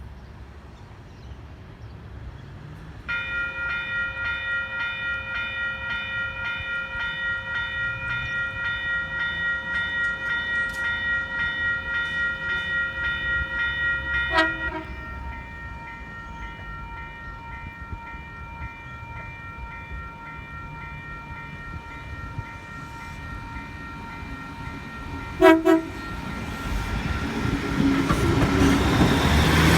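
Level crossing warning bells ringing in a rapid steady pulse, one of the tones dropping out about halfway through. Near the end an Xplorer diesel train sounds two short horn blasts, and the noise of its engine and wheels swells as it comes up to the crossing.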